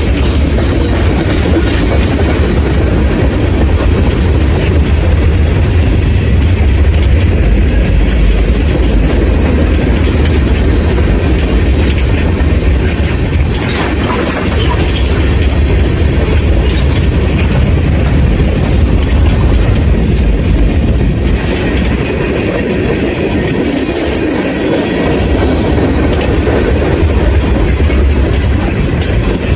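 A train passing close by, its wheels clattering over the rail joints in a loud, steady rumble.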